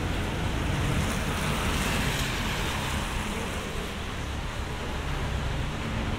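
Rain on a city street: a steady hiss over a low traffic rumble, swelling about a second or two in and then easing off.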